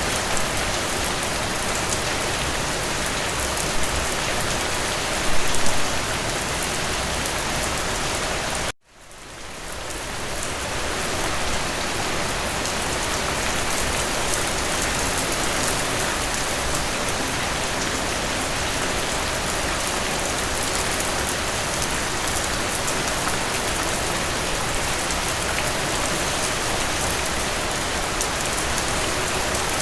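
Steady rain falling on a surface, an even hiss of drops with a few louder patters. About nine seconds in, the sound cuts out completely and fades back up to full over a couple of seconds.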